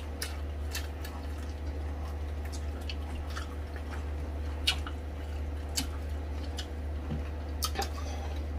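Close-up mukbang eating sounds: wet chewing and lip and finger smacks as pork knuckle meat is eaten by hand, heard as scattered short, sharp clicks over a steady low hum.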